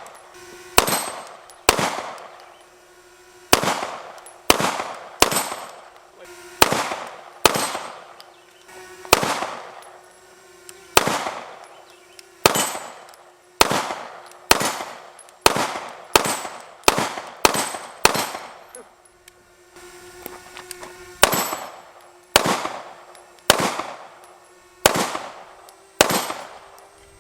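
SIG Sauer P320 M18 9mm pistol fired in a long string of single shots, spaced roughly half a second to a second apart, with a pause of about three seconds two-thirds of the way through.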